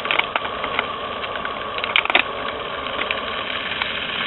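Small backpacking stove burning: a steady hiss with scattered crackles and clicks, two stronger ones about two seconds in.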